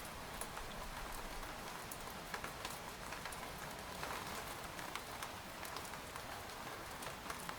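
Steady rain falling on a tent, a constant hiss with many separate drops pattering on the fabric.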